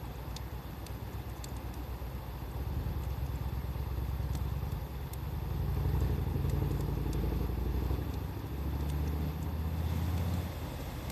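Low engine rumble, as of a motor vehicle running nearby, swelling and easing, over faint scattered crackles from a wood fire.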